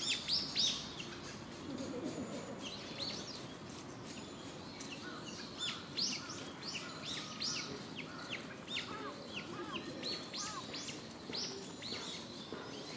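Small birds chirping: many short, high calls that sweep quickly in pitch, repeated over and over, some overlapping.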